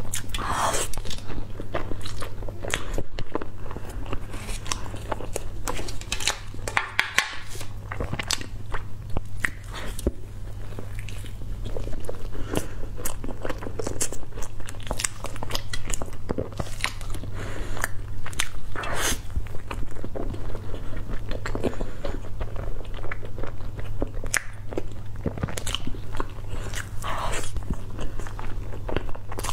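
Close-miked eating of a crumbly filled pastry: bites, chewing and crunching, with many small sharp mouth clicks throughout. A steady low hum runs underneath.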